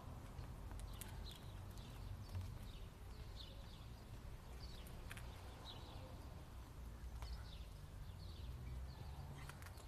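Small birds chirping over and over, short falling chirps one or two a second, over a steady low outdoor rumble, with a few faint clicks.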